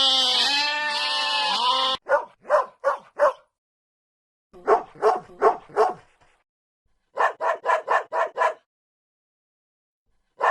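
A bleat fades out about two seconds in. A dog then barks in three quick runs of four to seven short barks, with pauses of about a second between runs.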